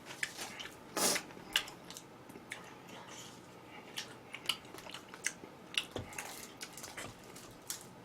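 Close-miked chewing and biting of food: a string of short, crisp crunches and mouth clicks, with a louder bite about a second in.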